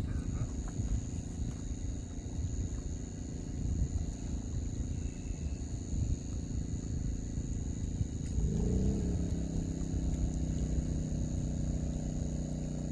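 Steady high-pitched insect chirring over low rumbling noise; about eight seconds in an engine starts, its pitch rising and then settling into steady running.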